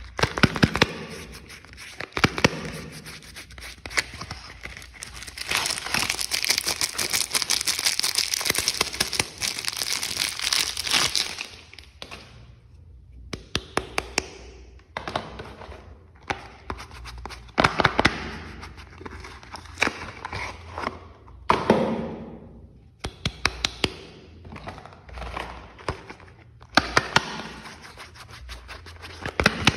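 Soap packaging being unwrapped: a long stretch of crinkling and tearing wrapper from about four seconds in to about eleven seconds, with sharp taps and clicks of handling scattered before and after.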